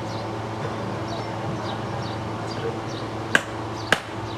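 Two sharp knocks about half a second apart near the end, over a steady low hum and faint high chirps.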